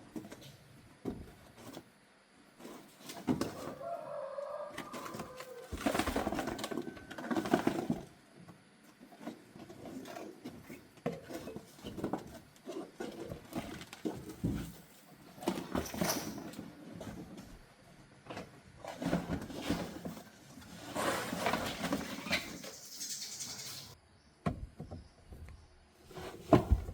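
Irregular hands-on work noises: scattered knocks and clicks, with several stretches of rubbing or scrubbing noise lasting a second or two.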